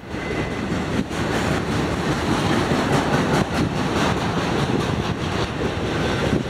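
Norfolk Southern intermodal freight train rolling past: the steady, continuous rolling noise of its trailer- and container-laden cars' wheels on the rails.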